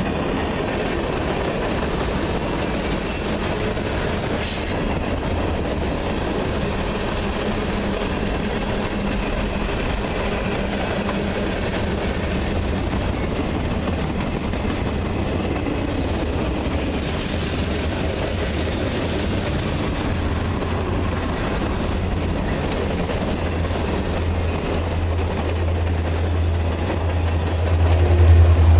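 Freight train cars rolling past, a steady rumble of steel wheels on rail with some wheel squeal. A deep engine drone grows louder near the end.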